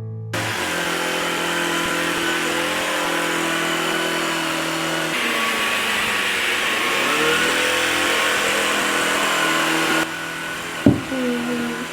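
Vacuum cleaner running steadily, its motor tone shifting slightly about halfway through. Near the end it drops quieter, and two short sharp sounds with a sliding pitch cut through.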